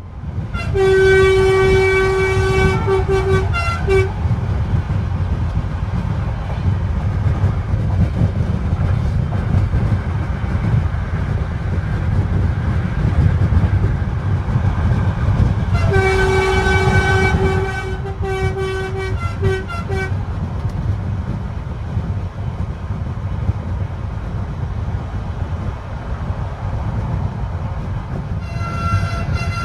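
Passenger train running with a steady low rumble, its horn sounding a held note that breaks into a few short toots about a second in, again around the middle, and briefly near the end.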